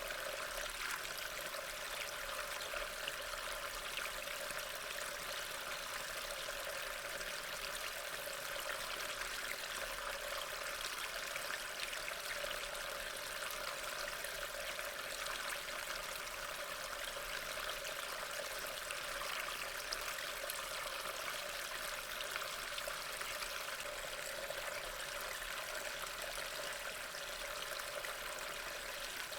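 Steady rain: an even hiss with a fine patter of drops, unchanging throughout.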